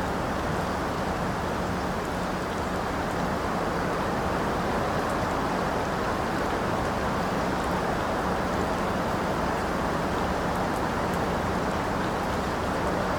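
Steady heavy rainfall, an even hiss with a few faint drop ticks.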